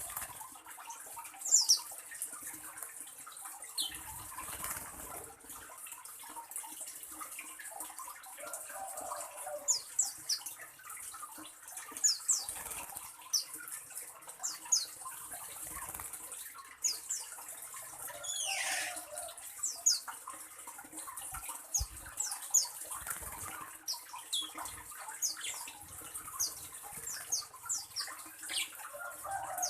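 Birds chirping: many short, sharp, high chirps scattered throughout, with one longer call falling steeply in pitch about two-thirds of the way in, over a steady high hiss.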